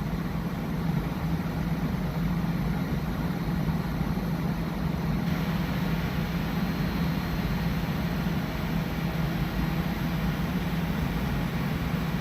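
LG Dual Inverter 14,000 BTU window air conditioner running with its fan at full speed and its inverter compressor ramping up, a steady rush of air over a low hum. The airflow gets slightly brighter about five seconds in.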